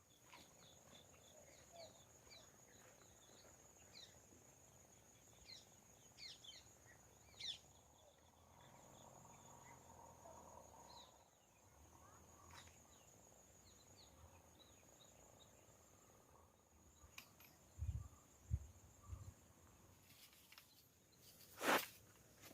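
Faint forest ambience: a steady high-pitched insect trill throughout, with scattered short bird chirps in the first several seconds. A few dull low thumps come about 18 seconds in, and a sharp click comes near the end.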